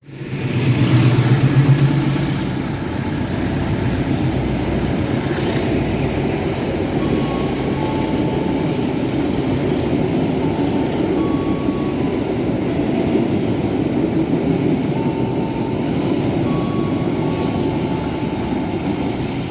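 A CC 206 diesel-electric locomotive hauling the Bima passenger train passes at speed without stopping. Loudest in the first two seconds with a low engine hum, then a steady rolling rumble of wheels on rails as the coaches go by, with faint brief wheel squeals.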